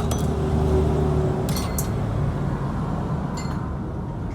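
An engine running steadily, fading out about a second and a half in, with light metallic clinks about one and a half and three and a half seconds in.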